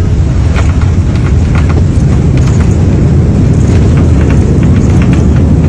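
Loud, steady low rumble of an airliner cabin shaking in heavy turbulence, with scattered clicks and knocks over it.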